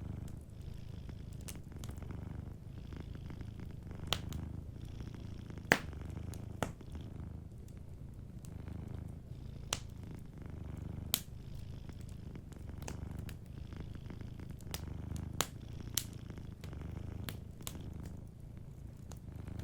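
Domestic cat purring steadily, a low rumble that swells and eases with each breath. Wood fire crackling over it, a scatter of sharp pops and snaps, the loudest about six seconds in.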